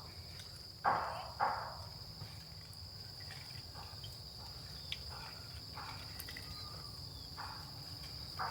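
Steady, high-pitched drone of insects trilling in the background, with two brief louder sounds about a second in.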